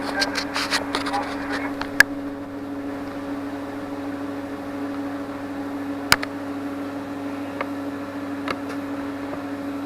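A steady machine hum, as of a fan or small motor, with a few light clicks near the start and two sharp single knocks, about two seconds in and about six seconds in.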